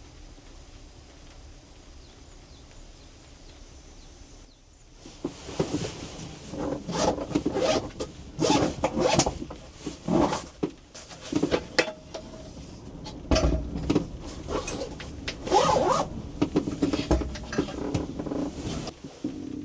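A quiet steady hum, then from about five seconds in irregular rustling, rubbing and light knocks of objects being handled.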